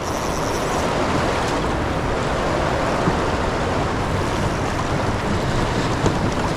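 Steady rush of fast, turbulent dam-tailwater current around a kayak, swelling during the first second and then holding even.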